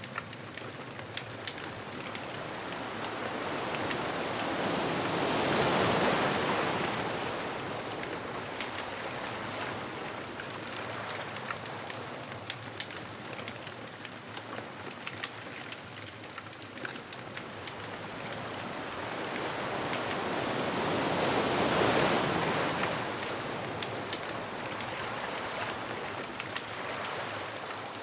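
Ocean waves breaking on a beach, two swells building and fading about a quarter and three quarters of the way through, with the small sharp crackles of a bonfire throughout.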